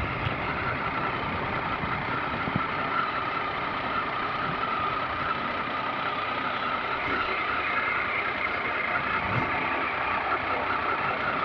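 Motorcycle engine running steadily, with no revving.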